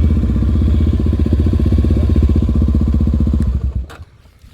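Single-cylinder four-stroke trail motorcycle engine running steadily with an even, rapid pulse, then cutting off suddenly near the end.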